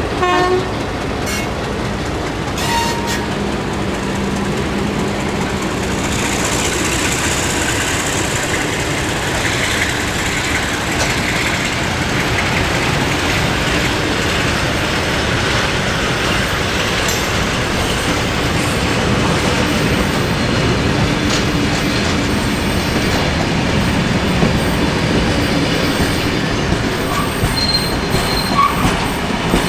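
Train rolling past on the rails: a steady rumble of wheels with clickety-clack over the rail joints and a high wheel squeal about six to ten seconds in. A horn blast cuts off just as it begins.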